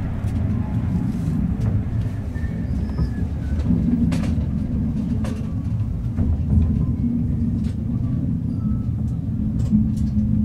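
Rumble of a passenger train's couchette car rolling into a station, heard from inside the car, with scattered faint clicks of the wheels over rail joints and points.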